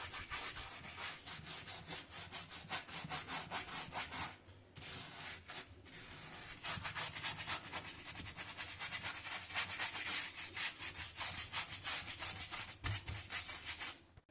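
Rust being abraded off a steel safe by hand, in quick, even back-and-forth scraping strokes. The strokes pause briefly a little after four seconds and again around six seconds, then come back louder and stop near the end.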